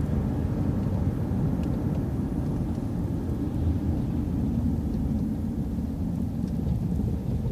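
Transit bus driving, its engine and road noise a steady low rumble.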